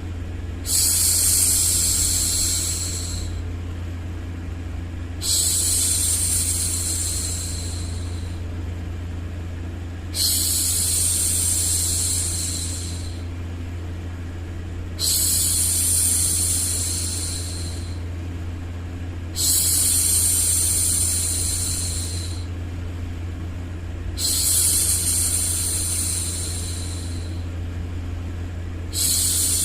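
A woman's voice making long hushing 'shhh' sounds for a baby, each about two and a half seconds long and repeated about every five seconds, over a steady low drone of background noise.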